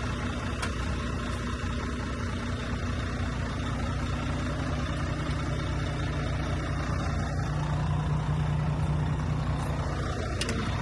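Heavy diesel dump truck engine idling steadily, its low hum growing a little stronger about halfway through.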